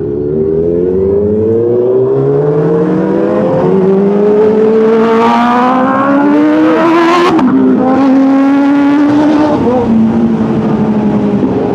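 Kawasaki H2's supercharged inline-four, through a Vandemon full-system exhaust, pulling hard under acceleration. The engine note climbs steadily, drops sharply at a gear change about seven seconds in, climbs again, and drops at another shift near the end.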